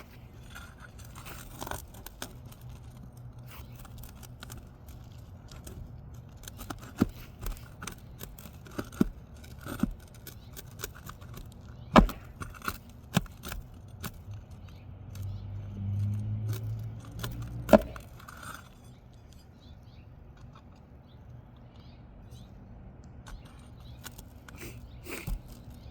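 A pry bar scraping and clicking against asphalt shingles and a roofing nail, in a scattered series of sharp metallic taps. A low rumble swells briefly past the middle.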